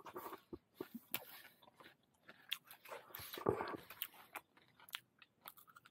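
A person biting and chewing crunchy food, quietly, in a run of small irregular crunches.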